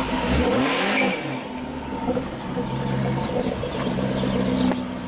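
Jaguar XKR-S supercharged V8 engine revved once briefly about half a second in, then settling to a steady idle.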